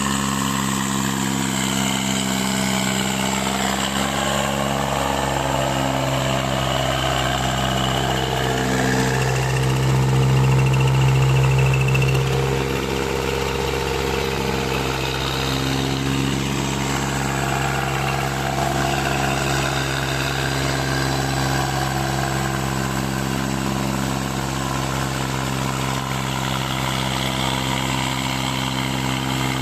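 Tractor diesel engine running steadily, swelling louder for a couple of seconds about ten seconds in.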